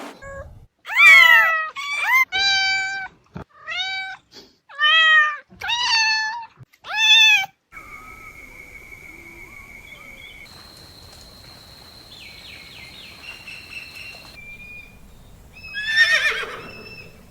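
A cat meowing about seven times in quick succession, each meow rising and falling in pitch. Then a quieter stretch with a few thin, steady high tones, and one more call near the end.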